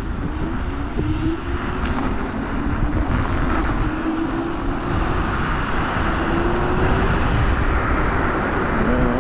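Teewing Mars XTR electric scooter riding at speed: a steady motor whine that rises slowly in pitch several times, under heavy wind rumble on the microphone.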